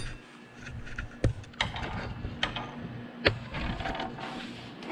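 Sliding miter saw being handled, giving a few sharp mechanical clicks and a light rattle as its parts are moved.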